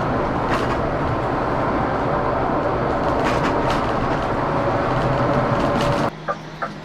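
Scania K410CB coach on the move: steady dense road and engine noise with a few light rattles. About six seconds in it cuts off abruptly to a much quieter hum with regular sharp ticks.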